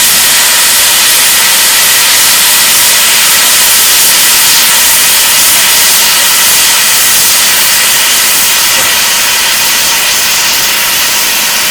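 Steam locomotive blowing off steam: a very loud, steady hiss with a faint whistling tone in it, starting and stopping abruptly.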